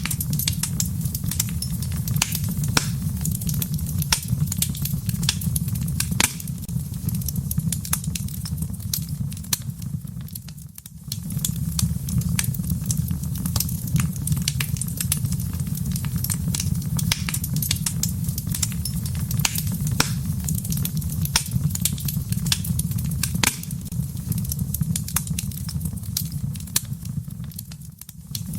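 Wood fire crackling in a fireplace: frequent sharp pops and snaps over a steady low rumble of the flames, briefly quieter about a third of the way in and again near the end.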